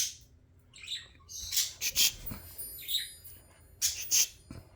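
Budgerigars chirping and chattering in a string of short, high-pitched bursts, after a single sharp tap at the start.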